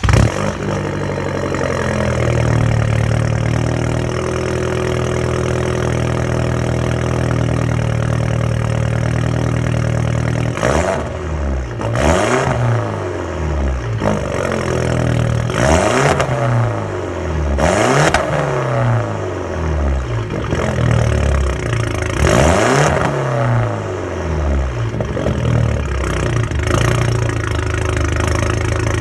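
2009 Mini Cooper S R56's turbocharged 1.6-litre four-cylinder running through a straight-pipe exhaust, idling steadily for about ten seconds, then revved about five times, each rev rising and falling back to idle.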